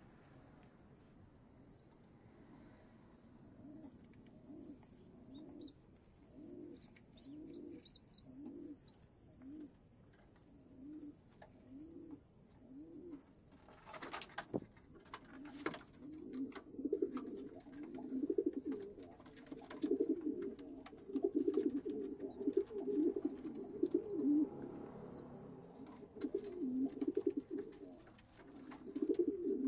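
Homing pigeons cooing: soft, evenly repeated coos about once a second at first, then two sharp clatters like wing flaps about halfway through, followed by louder, near-continuous cooing. A steady high insect trill runs behind.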